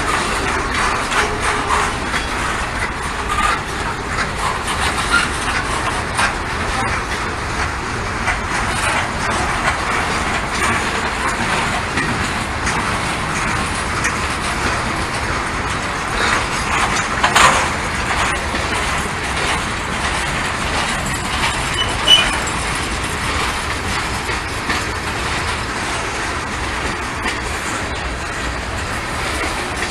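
Norfolk Southern freight train rolling past, its cars' wheels clattering steadily over the rail, with two sharper bangs about 17 and 22 seconds in.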